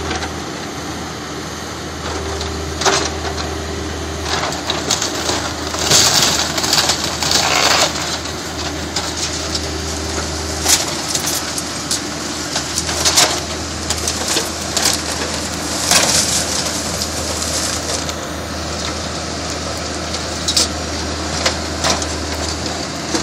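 Backhoe engine running steadily while its bucket crushes and breaks up a house's wooden walls and furniture, with irregular cracking and crunching of splintering wood, loudest about six to eight seconds in and again around thirteen and sixteen seconds.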